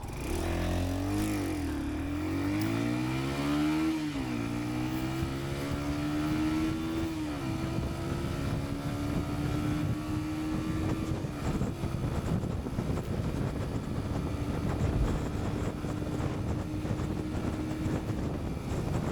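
Yamaha SR125's single-cylinder four-stroke engine accelerating hard through the gears: the revs climb and drop at gear changes about one and a half and four seconds in, then climb again and hold a high, nearly steady note at full throttle. The engine note fades into steady wind noise near the end.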